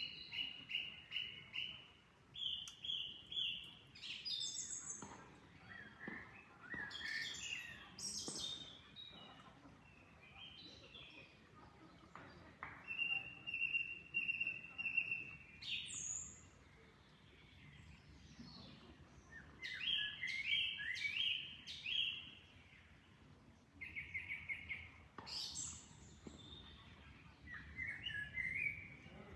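Several songbirds singing and chirping, with quick runs of repeated notes and some sliding whistled notes, over a faint steady rush of flowing water.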